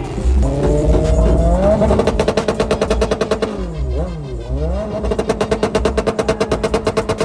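A car engine revved up and held at the rev limiter, the revs chopping in and out in a rapid, even stutter. Around the middle the revs drop and climb back a couple of times before it bounces off the limiter again.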